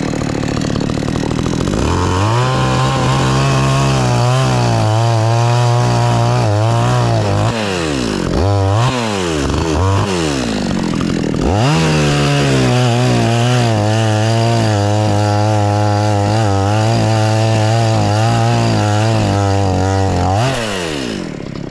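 Two-stroke chainsaw opened up to full throttle and cutting into a tree trunk, its note wavering under load. It eases off and revs back up twice in the middle, cuts again, then drops back to idle near the end.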